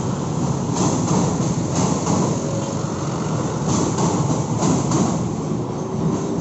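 Passenger train carriages rolling over a steel truss railway bridge: a steady rumble with sharp wheel clacks over the rail joints, roughly a second apart.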